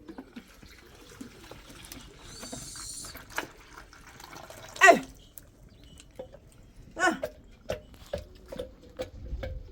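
Two loud animal calls, about five and seven seconds in, over soft cooing of doves, followed by a run of short clicks.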